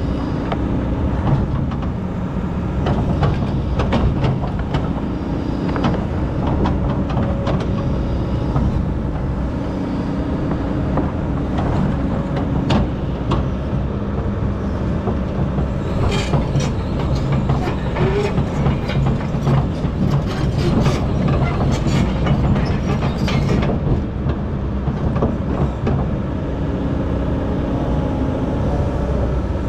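Excavator's diesel engine running steadily while the bucket digs sand, with many sharp clanks and scrapes, densest from a little past halfway to about three-quarters through.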